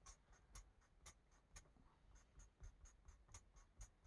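Marker tip scratching on a coloring book page in quick short strokes, about four a second, faint.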